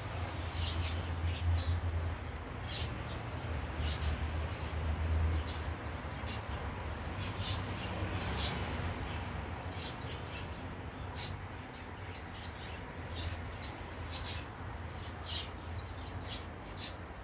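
Short, high bird chirps scattered throughout, over a low steady hum.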